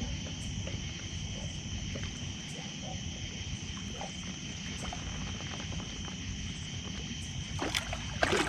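Water sloshing and lightly splashing against a kayak as a big flathead catfish is worked to the net, over a steady high insect hum. A sharper splash comes near the end.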